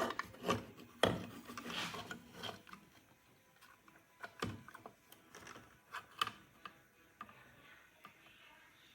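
Irregular clicks and knocks with soft rubbing and scraping between them, the sound of hard objects being handled; no steady motor is running.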